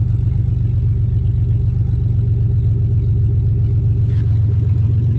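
Ford Explorer's engine idling steadily, just started after sitting through the winter and running well.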